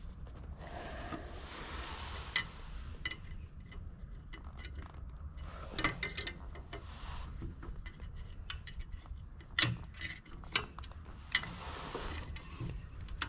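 Irregular clicks and light metallic clatter from hand work on a tractor headlight assembly, over a low steady hum.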